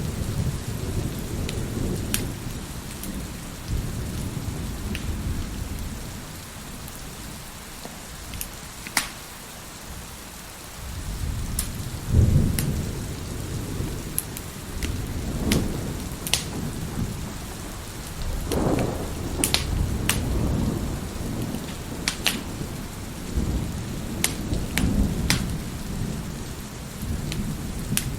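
Wood fire crackling with scattered sharp pops over steady rain and rolling thunder. The thunder dies away for a few seconds midway, then rumbles back in about eleven seconds in and is loudest just after.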